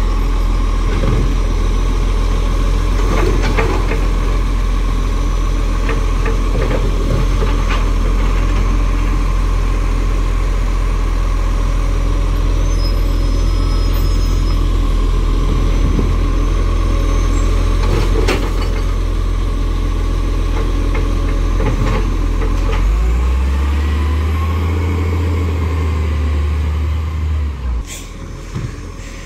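Garbage truck's diesel engine running steadily with a deep rumble and a few sharp knocks; the engine note shifts for a few seconds near the end, then the sound drops away.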